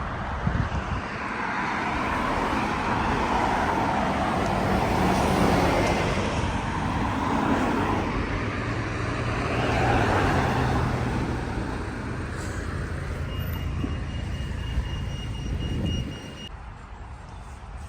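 Road traffic passing: cars driving by with a low engine hum and tyre noise, swelling and fading as they pass, then dropping off sharply near the end.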